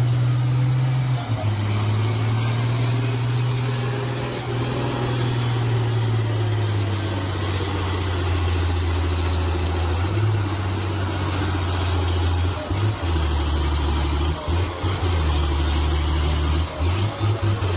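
Heavy truck engine running under load, its low drone stepping down in pitch over the first several seconds, then briefly stuttering and cutting in and out several times in the second half.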